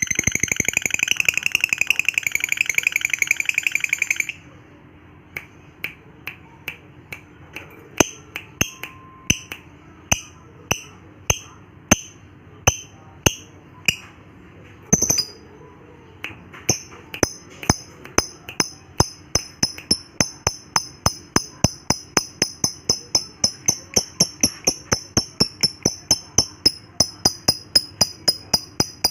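Lovebird giving a fast, continuous high chatter for about four seconds. It then switches to a long run of short, sharp chirps that start sparse and speed up to about three or four a second.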